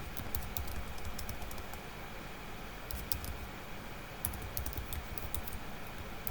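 Typing on a computer keyboard in bursts of quick key clicks, with a pause of about a second and a half near the middle, over a steady low hum.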